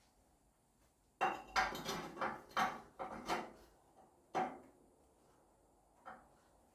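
Metal objects clanking and clattering against each other, a quick run of knocks lasting about three seconds, then one more clank near the end.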